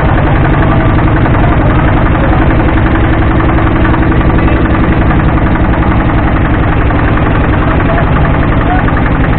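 Motorboat engine running steadily and loud, close by, with a fast even throb.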